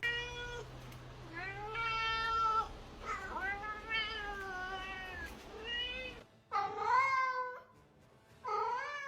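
Domestic cat meowing over and over: a run of long meows that rise and fall in pitch, with a short break about six seconds in.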